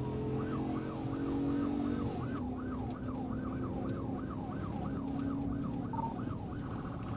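Police car siren in fast yelp mode, sweeping up and down about three times a second, over a vehicle's engine running; near the end it switches to a different, steadier siren tone.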